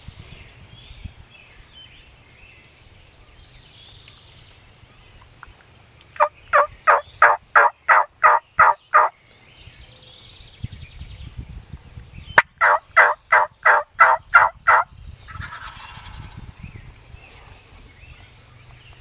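Turkey yelping: two loud runs of about ten evenly spaced yelps each, about four a second, a few seconds apart.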